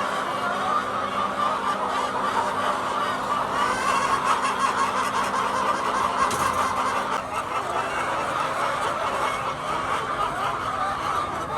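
A large flock of hens clucking all at once, a steady, dense chatter of overlapping calls.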